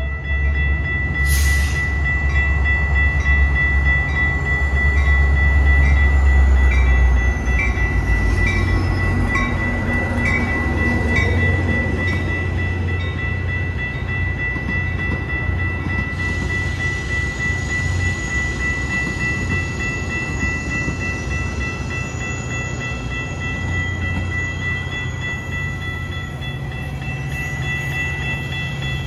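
Metra commuter train passing: a heavy low rumble, loudest in the first seven seconds, eases to a steadier rolling sound. A steady high tone and light, evenly spaced ticks run over it.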